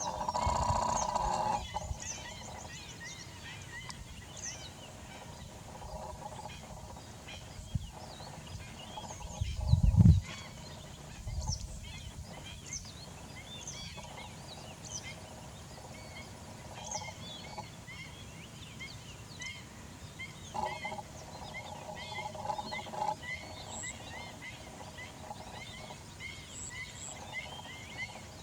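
Many birds calling, with short high chirps all through. A louder, lower pitched call comes at the start and again about 21 seconds in, and there is a low thump about 10 seconds in.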